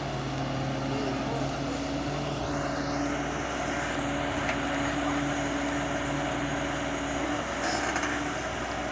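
Diesel engine of a Doosan DX140 excavator running at a steady pitch, with an even low hum throughout.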